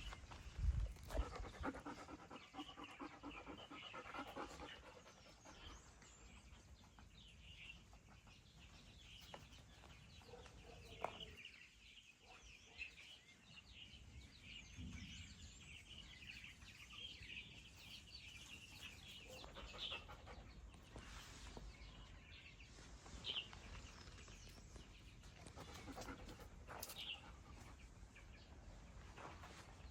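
A dog panting rapidly, loudest in the first few seconds, with faint high chirping behind it.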